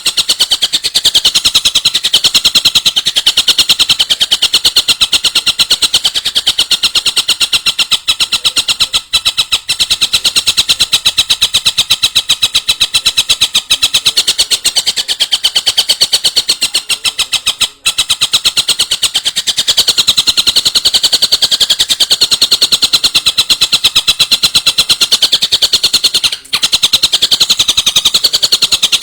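A bird's rapid, rattling call: a fast, even string of high notes repeated without let-up, with a few very brief breaks.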